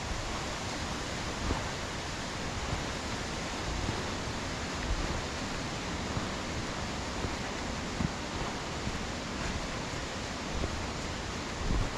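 Steady rushing of water from a waterfall and its beck, a constant even hiss with no let-up.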